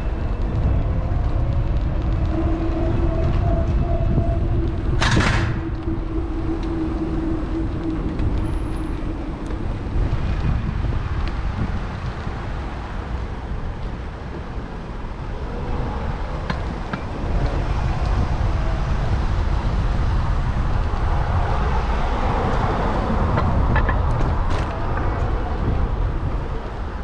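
Wind buffeting a bike-mounted action camera's microphone while cycling, with a steady low rumble of wind and tyre noise and road traffic passing. A brief loud burst of noise comes about five seconds in, and a louder passing swell follows near the end.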